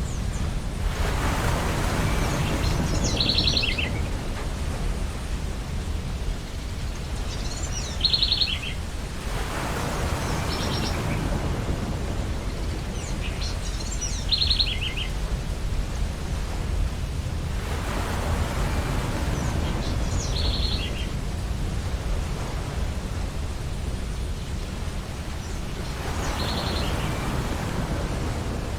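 Ocean surf washing onto a beach in slow swells about every eight seconds over a steady low rumble, with a bird's short, rapid chirping call heard five times, about six seconds apart.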